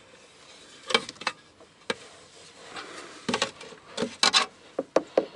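Scattered light knocks, taps and scrapes of hand handling as the fuel-pump access cover is lifted off and set aside. They come in small clusters, with a few sharp taps near the end.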